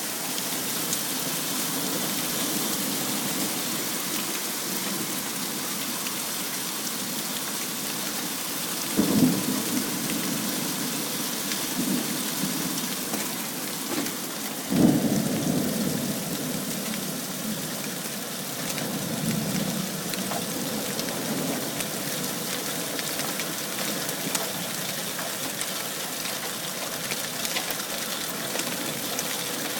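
Hail falling hard, a steady hiss of many small stones striking surfaces. Thunder rumbles twice, about nine and fifteen seconds in, the second rumble louder.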